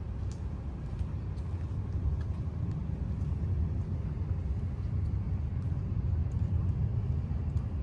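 Steady low rumble of outdoor city ambience, like distant road traffic, swelling slightly partway through, with a few faint light ticks over it.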